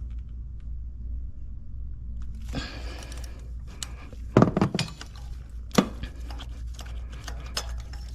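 Hand tools and a new spark plug being handled in the engine bay: rustling with sharp metal clinks and knocks, starting about two and a half seconds in, the loudest knocks a little past halfway, as the plug is fitted and tightened.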